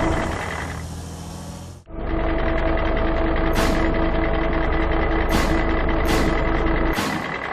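Truck engine sound effect running steadily with a held tone. It fades out and cuts off just before two seconds in, then starts again. Four short hisses sound in the second half.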